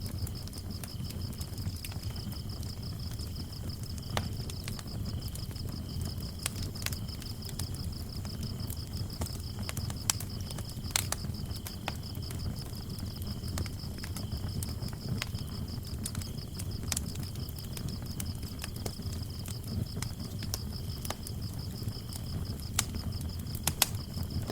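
Wood fire crackling and popping over a low steady rumble, with sharp pops scattered irregularly. Crickets chirp throughout: one in a steady high pulsing trill, and a second, lower-pitched one chirping on and off.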